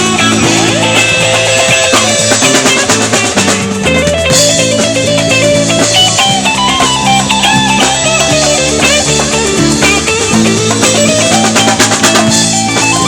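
Live rock band playing an instrumental passage: electric guitar lines over bass and a drum kit with a steady beat.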